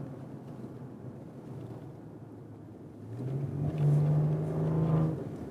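Maserati Ghibli SQ4's 3.0-litre twin-turbo V6 heard from inside the car: off the throttle for about three seconds, then the engine note rises and holds strong as it accelerates uphill, easing off again near the end.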